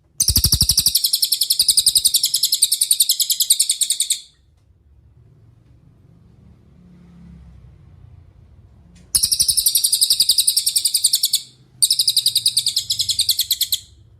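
Cililin bird singing in three fast, high-pitched trills of rapidly repeated notes. The first lasts about four seconds, then after a pause come two shorter ones in close succession.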